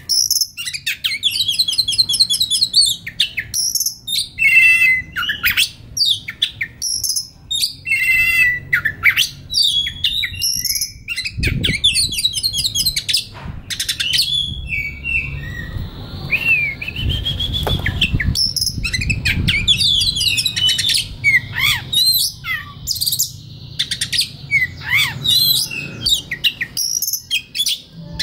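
Oriental magpie-robin singing a continuous, varied song of clear whistles and rapid buzzy trills. A low rumbling noise runs underneath for several seconds in the middle.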